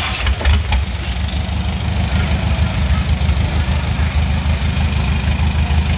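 An engine running close by, a steady, rapidly pulsing low rumble, with a few brief knocks about half a second in.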